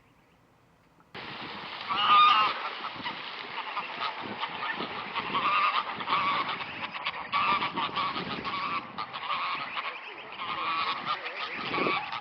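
A flock of greylag geese honking, the calls overlapping and repeating; the sound starts suddenly about a second in after near silence.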